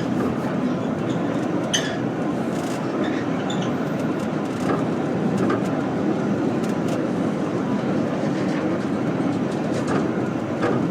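Heritage train running along the track: a steady rumble of wheels on the rails, with scattered sharp clicks and squeaks.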